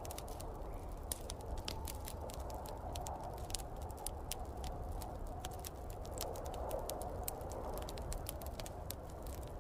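Wood fire crackling in a fireplace, many small sharp pops at irregular intervals, over a steady whooshing rush of snowstorm wind.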